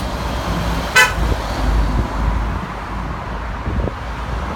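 Road traffic rumbling past, with one short car horn toot about a second in.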